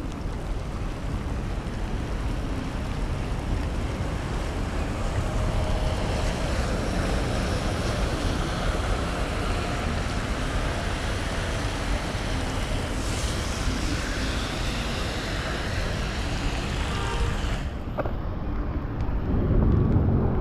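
Wind buffeting the microphone of a camera on a moving bicycle in the rain, a steady rushing noise with a heavy low rumble that grows louder near the end.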